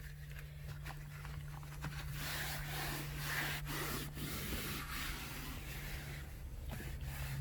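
A disposable hand wipe rubbed over the truck's interior trim to lift lint, a soft scrubbing sound that grows louder about two seconds in and eases off near the end.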